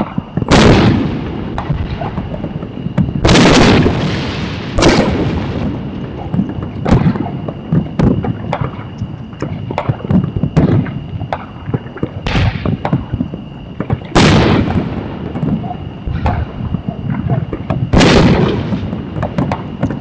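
Fireworks going off: several loud booms with long echoing tails, five of them heavy, and rapid crackling pops in between. A faint steady high tone runs underneath.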